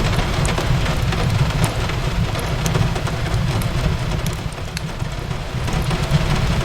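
Steady rain on a window with a low rumble, and scattered sharp crackles from a wood fire in a fireplace.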